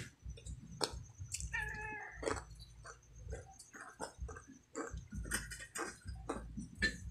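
Crispy fried chicken skin being bitten and chewed, with irregular sharp crackling crunches. A short high-pitched cry lasts under a second, about a second and a half in.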